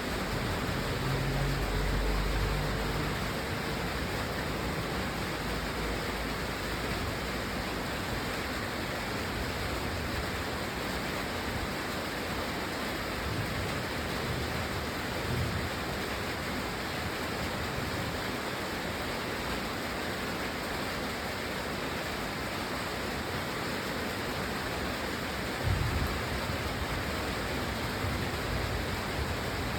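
Steady heavy rain making an even hiss, with a few short low rumbles in the first few seconds, mid-way and near the end.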